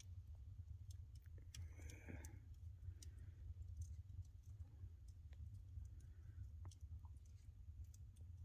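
Faint wood fire crackling, with scattered irregular pops over a steady low rumble and a brief hiss about two seconds in.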